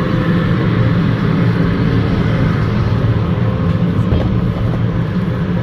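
Edmonton LRT light-rail train, a steady loud rumbling hum with a faint steady whine over it.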